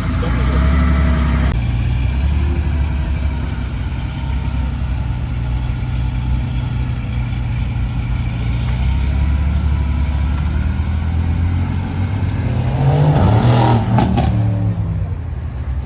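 Car engines rumbling at low revs. About thirteen seconds in a car passes close by, its sound swelling and then fading away.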